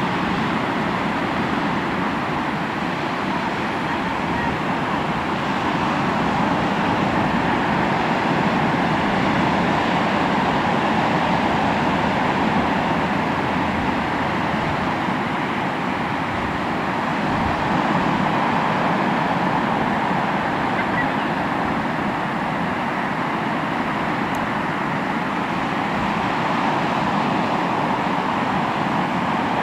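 Sea waves washing on the shore: a steady rush of surf that swells and eases slowly over several seconds.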